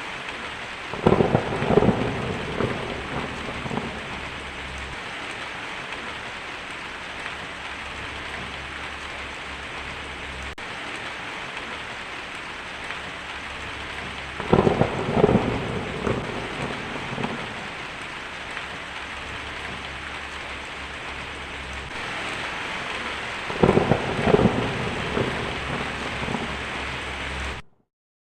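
Heavy rain drumming steadily on a tin roof, with three rolls of thunder of a few seconds each: one about a second in, one about halfway, and one near the end. The sound cuts off suddenly just before the end.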